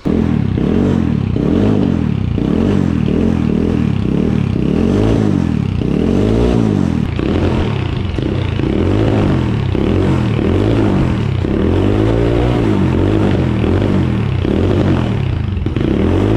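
Apollo 250cc dirt bike's single-cylinder engine running through its stock factory exhaust, revved over and over so the pitch rises and falls every second or two.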